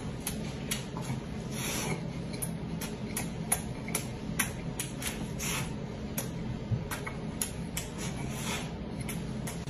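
Close-up crunching and chewing of a crisp, flaky baked pastry, with irregular sharp crackles about two a second and a few longer crunchy rasps as it is bitten and chewed.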